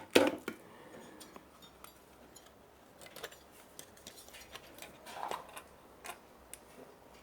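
Small tools and parts being handled while taking a part off a home theater unit: a sharp knock near the start, then scattered light clicks and clinks, with a short rustle about five seconds in.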